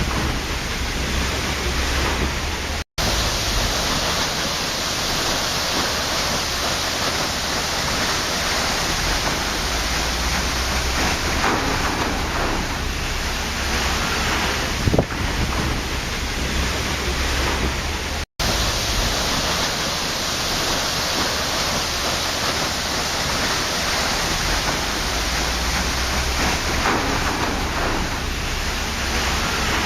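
Waterfall: a steady, dense rush of falling water, broken by two very brief dropouts to silence, about three seconds in and about eighteen seconds in.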